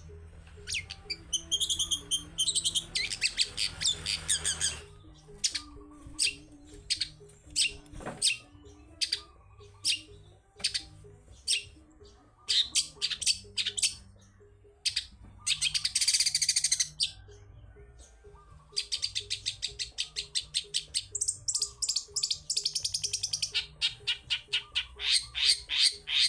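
Long-tailed shrike (cendet) singing a varied, chattering song of sharp chips and rapid high trills, with a harsh buzzy note about two-thirds of the way in and a long fast trill near the end.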